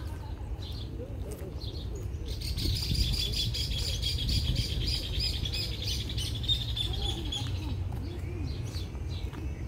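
A bird chirping in a fast, even run of high notes, starting about two seconds in and lasting about five seconds, over a low steady rumble.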